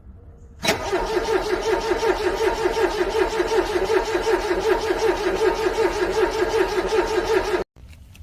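A car's starter motor cranking a cold engine in a long, rhythmic, even pulsing that does not catch, cutting off suddenly near the end.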